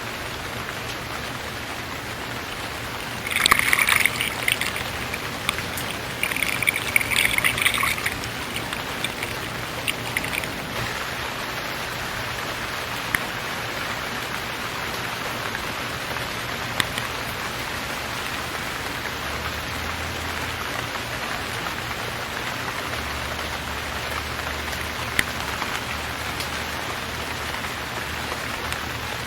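Steady rain falling, an even hiss with a few single drop ticks. Twice near the start a louder rush of noise lasting a couple of seconds breaks over it.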